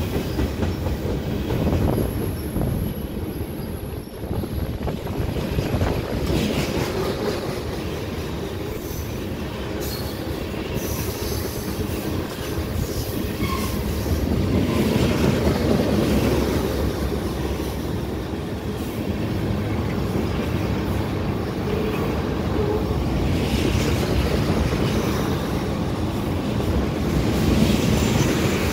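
Freight cars of a long mixed freight train rolling past: a steady rumble of steel wheels on rail, with clacking over the rail joints. A thin high wheel squeal comes in about two seconds in.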